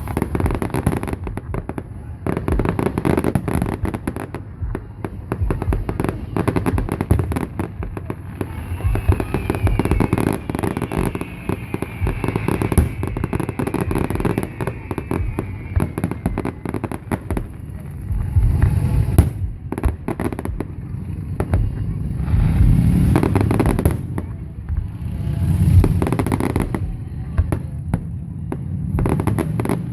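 Fireworks display: a dense run of bangs and crackles, with a falling whistle partway through and heavier low booms of shells bursting in the last third.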